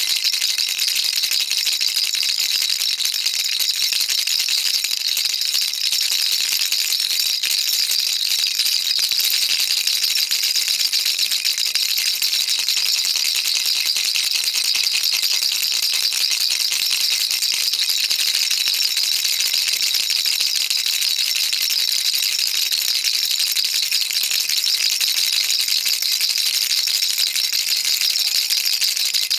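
Baby rattle shaken continuously and evenly, a dense stream of fine, bright clicking beads with no pauses.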